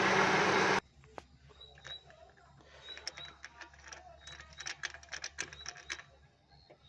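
The Suzuki Swift's running engine stops abruptly under a second in. Then come scattered light clicks and ticks of hand-tool work on the engine, thickest in the middle, with faint short high chirps.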